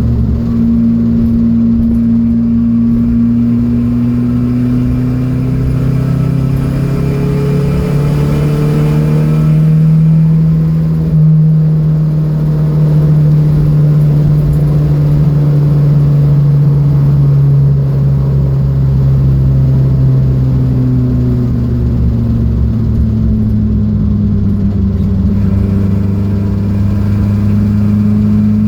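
Datsun B210 engine running hard on track: its note climbs over several seconds, sinks slowly, then climbs again near the end.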